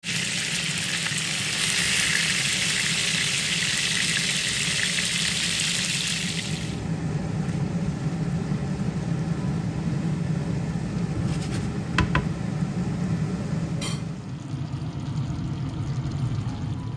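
Food sizzling as it fries in hot oil, a loud steady sizzle that cuts off abruptly about seven seconds in. A low steady hum runs underneath throughout, with a few sharp clicks in the second half.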